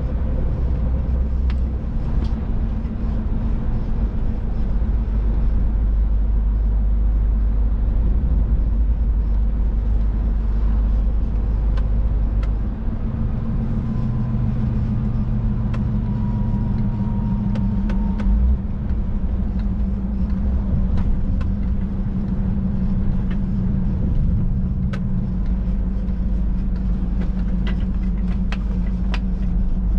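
Scania truck's diesel engine and road noise heard from inside the cab while driving, a steady low drone whose tone shifts about 13 seconds in and again about 25 seconds in.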